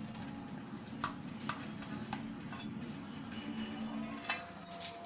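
Scattered light clicks and clinks of kitchen utensils against a pressure cooker as lentils and chicken are added, over a steady low hum.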